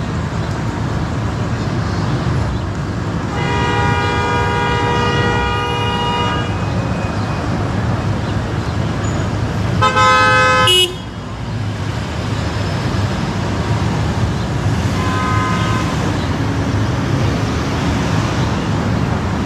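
Steady road noise of city traffic with car horns honking three times. The first honk comes about three and a half seconds in and lasts nearly three seconds. The second, about ten seconds in, is a very loud blast of about a second. A fainter, shorter honk follows around fifteen seconds in.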